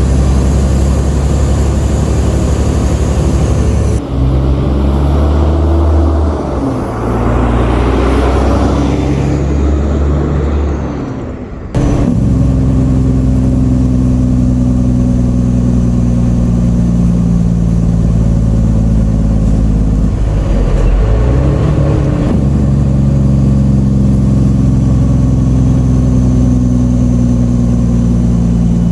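Diesel engine of a semi truck hauling a full load of wheat, running steadily under load. Its pitch drops and climbs again about twenty seconds in, and the sound changes abruptly about four and twelve seconds in.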